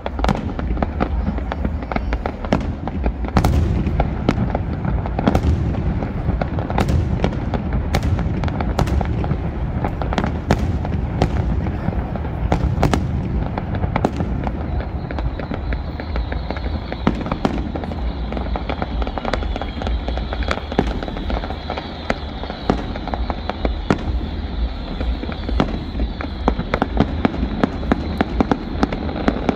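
Aerial fireworks display: a rapid string of shell bursts and sharp cracks over a continuous rumble of booms. A steady high hiss comes in about halfway.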